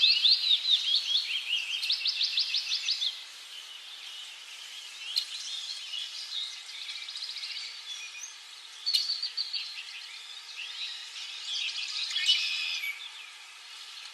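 Songbirds chirping and trilling: a dense run of rapid trills for the first three seconds, then softer, scattered chirps and short trills.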